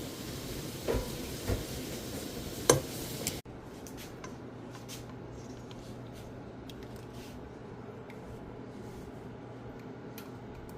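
Kitchenware clatter: three sharp knocks of dishes or pots over a hissy background, then, after an abrupt cut, scattered light clinks over a steady low hum.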